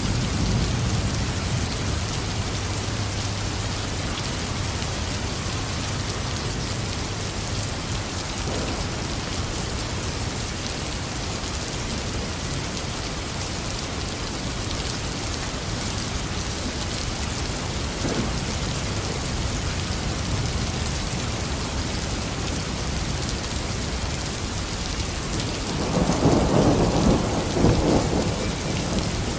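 Heavy rain falling steadily, with a low thunder rumble through the first several seconds and a louder, crackling peal of thunder near the end.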